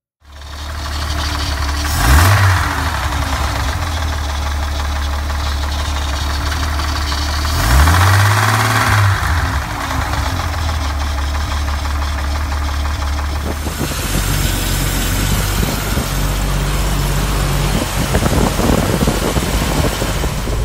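Toyota 2F inline-six engine of a 1984 FJ60 Land Cruiser idling, with two brief blips of the throttle, about two seconds in and again around eight seconds in.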